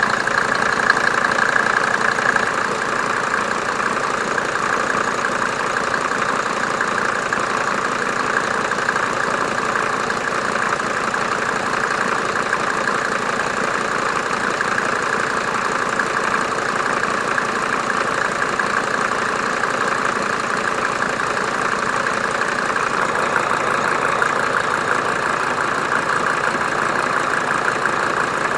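A 1987 Mercedes 190D's OM602 2.5-litre five-cylinder turbo diesel idling steadily with the usual diesel knock.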